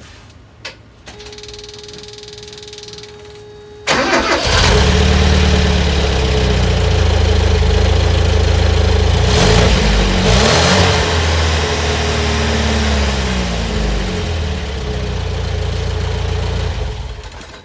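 A Mazda car engine breathing through a small ATV muffler welded into its exhaust. A steady tone sounds for a few seconds, then about four seconds in the engine cranks and starts. It idles, is revved briefly twice around the middle, and idles again before it is shut off near the end. The exhaust note sounds like a stock muffler.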